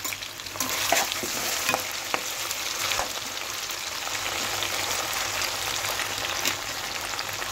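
Julienned ginger deep-frying in hot oil: a steady sizzle full of fine crackles, with a few sharper pops, as a spatula stirs it through the oil.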